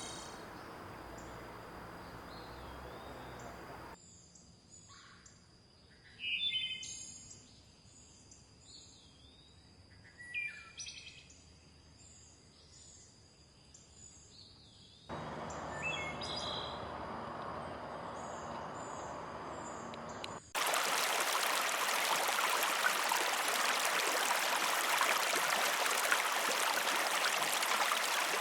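Forest birds chirping and calling over the rush of running water, in spliced stretches with sudden cuts. About four seconds in, the water noise drops out and the short bird calls sound clearly. The rush returns about halfway through, and for the last third a louder, steady rush of water covers everything.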